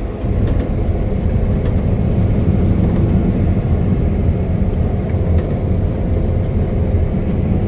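Combine harvester running steadily while harvesting wheat, heard from inside its cab: a constant low drone of engine and threshing machinery with a faint steady hum above it.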